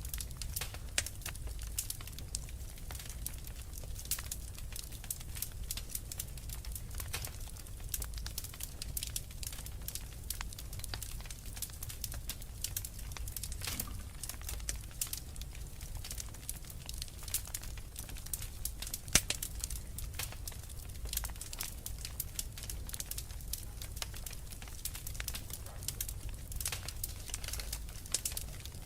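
Wood fire crackling with frequent sharp pops and snaps, one louder pop about two-thirds of the way through, over a steady low rumble of blizzard wind.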